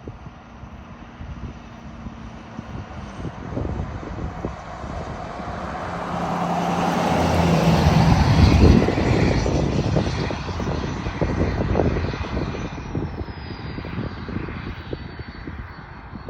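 A Ford F250's 6.7 L Power Stroke V8 turbodiesel with a Stage 1 KC Whistler turbo and a 4-inch exhaust without muffler or resonator, driving past. It grows louder to a peak about eight to nine seconds in, then fades away, a high whistle sliding down in pitch as it recedes.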